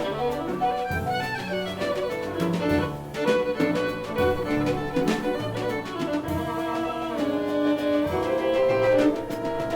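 Jazz violin playing a melody of held and moving notes, accompanied by piano and drums.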